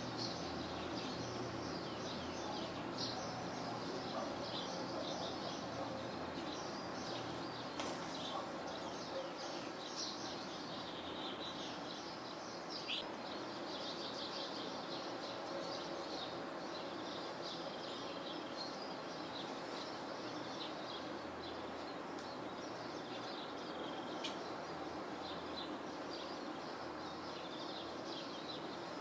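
Many small songbirds chirping and twittering without pause, a mixed group of finches, tits and sparrows. A steady background noise hiss runs underneath.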